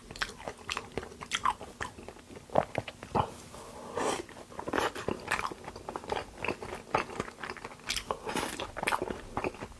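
Close-miked chewing of Korean raw beef: a steady run of wet mouth smacks, bites and small crunches.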